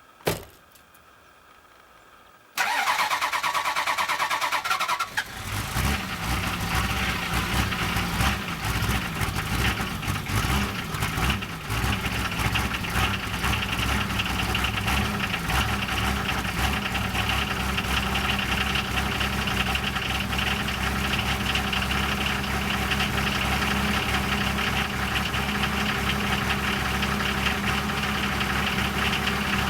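Toyota Land Cruiser HJ60's 2H inline-six diesel cold-started: a sharp click, then the starter cranks for about two and a half seconds before the engine catches. It then idles steadily, a little uneven for the first several seconds.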